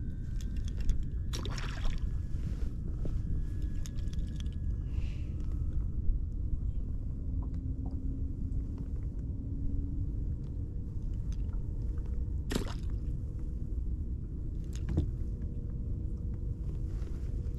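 Steady low rumble of water and wind around a kayak, with a few brief sharp knocks or splashes, the clearest about a second and a half in and about twelve and a half seconds in.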